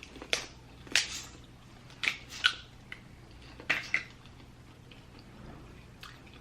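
Lobster shell being cracked and picked apart by hand: a series of short, sharp cracks and clicks, about seven in six seconds, spaced irregularly.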